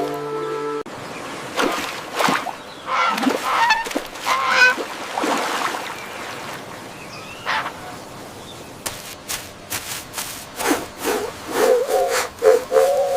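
Domestic waterfowl honking, a series of calls in the first half, with a run of sharp clicks and more short calls near the end.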